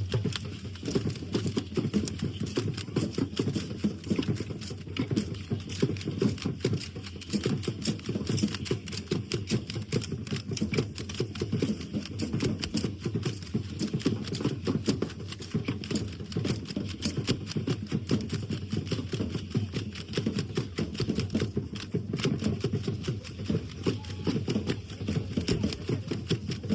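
Dense, rapid clattering of a dance troupe's hand rattles and stamping feet, a fast, even beat that runs without a break.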